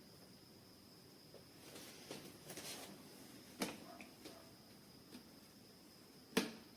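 A few scattered light clicks and knocks in a quiet room: one sharp click about three and a half seconds in and a louder knock near the end, over a faint steady high-pitched tone.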